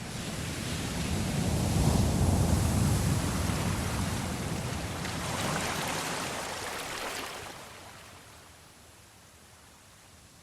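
Sea waves washing: a low surge swells to its loudest about two seconds in, then a second, hissier wash comes around six seconds and dies away to faint sea noise.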